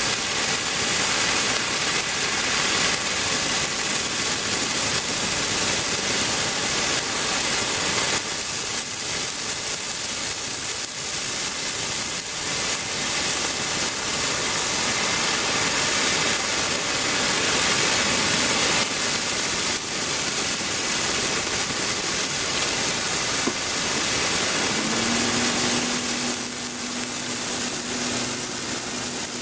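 Steady loud hiss of a ground fountain firework spraying sparks. About 25 seconds in, a steady low hum joins it.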